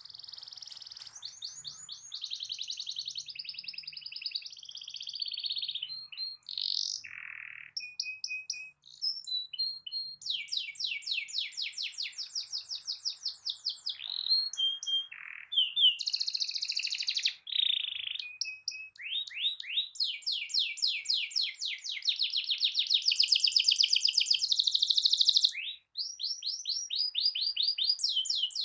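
Domestic canary singing a long, varied song of fast rolling trills and short whistled notes, with a few brief breaks between phrases.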